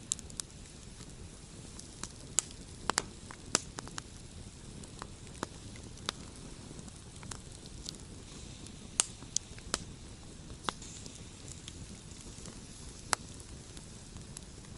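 Wood campfire crackling: irregular sharp pops and snaps over a steady low rush.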